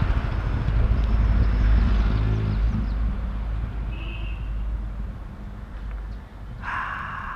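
A motor vehicle's engine rumbling close by, loudest about two seconds in and then fading as it moves off. A short vehicle horn blast sounds near the end.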